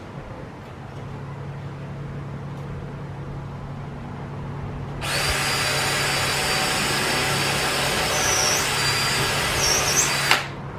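Power drill running into a wooden 2x6 ceiling beam, starting abruptly about halfway through and running steadily for about five seconds before it cuts off with a click.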